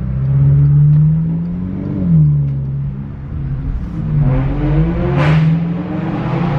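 Car engine accelerating hard. It revs up, drops at a gear change about two seconds in, then climbs again, with a short rush of noise about five seconds in. The driver calls it "crazy".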